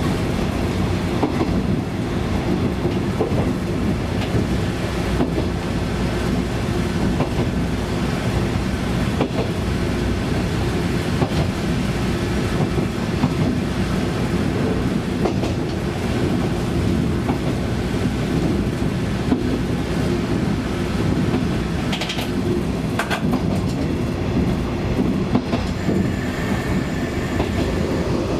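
Single-car diesel railcar (a 1965 KiHa 20-series unit) running along the line, heard from inside the car: a steady engine and running drone with wheels clicking over rail joints. About 22 seconds in there is a brief sharper noise, and faint high tones come in near the end.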